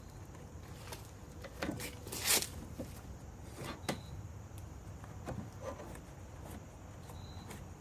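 Scattered light knocks and clicks from handling metal parts, with one short, louder scrape a little over two seconds in, over a low steady hum.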